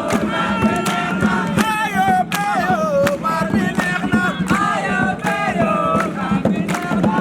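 A group of voices singing a campfire chant together, several pitches at once, over frequent sharp beats.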